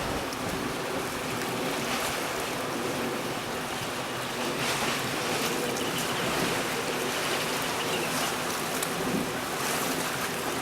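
Steady rushing of sea waves with wind buffeting the microphone.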